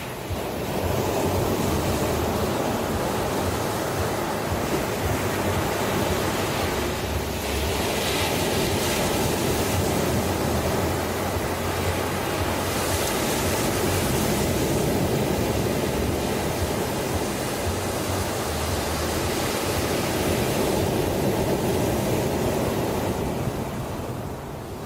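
Ocean surf: waves breaking and washing in a continuous rush that swells and eases. It is quieter at the very start and near the end, with brighter hissing surges in between.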